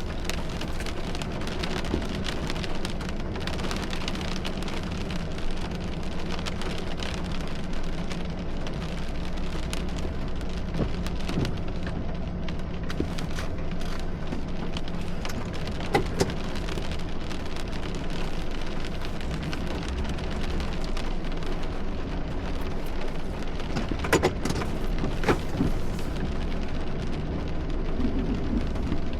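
Heavy thunderstorm rain striking a hard surface: a dense, steady patter of many drops, with a few louder single hits about sixteen seconds in and again near the end. A steady low hum runs underneath.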